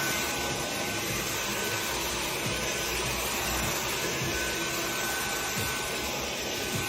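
Steady rushing noise, like air from a running blower motor, with a faint thin whine in it; it cuts off abruptly at the end.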